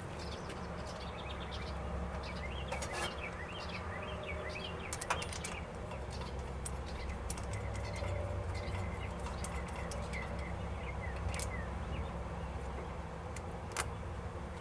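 Small birds chirping and tweeting in the background, with a few sharp clicks and a steady low hum underneath.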